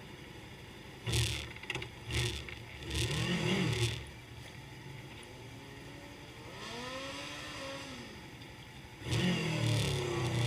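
Motorcycle engines revving in short blips, rising and falling in pitch. Then one goes by with its pitch rising and falling, and a louder engine comes in near the end.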